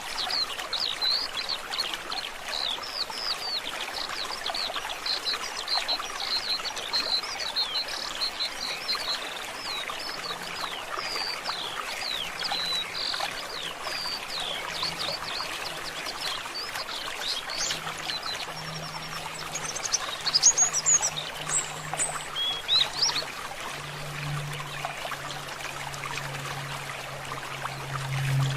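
A forest stream trickling steadily, with small birds chirping rapid short calls over it. A louder flurry of higher calls comes about two-thirds of the way through, and a low steady hum grows stronger near the end.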